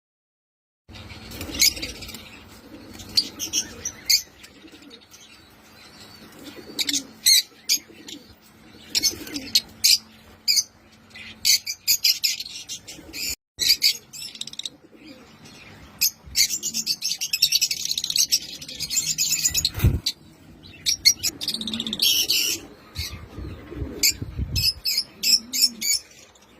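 Lovebirds chirping: a string of short, sharp, high-pitched chirps starting about a second in, with stretches of rapid, dense chattering in the middle. A single low thump about twenty seconds in.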